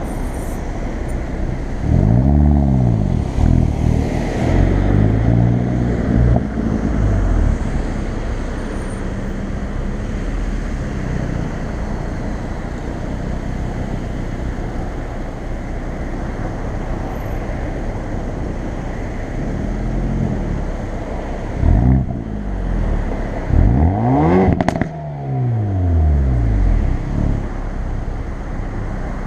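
Hyundai i30 N's turbocharged four-cylinder engine and N-mode sports exhaust under way: the revs rise and fall several times, with a steady drone from about eight to nineteen seconds in. Near the end a quick rev rise and fall carries a sharp crack from the exhaust.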